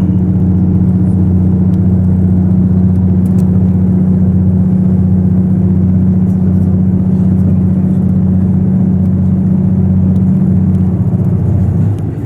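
KiHa 85 series diesel railcar's Cummins engine running under power, a loud, steady low drone. Near the end it eases off and drops in level, as the throttle is cut.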